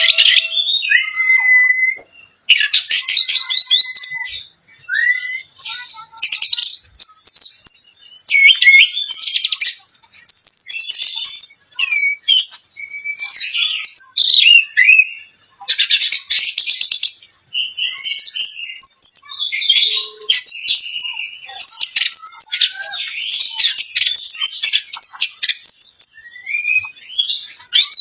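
Orange-headed thrush singing a long, varied song of rapid trills, whistled glides and chattering phrases, broken by short pauses.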